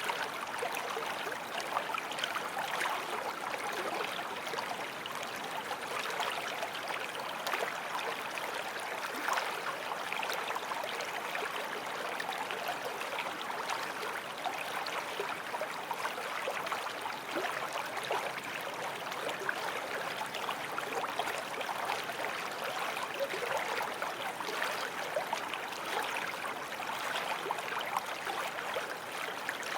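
A small forest stream flowing and babbling over stones, a steady splashing and gurgling of water with no pauses.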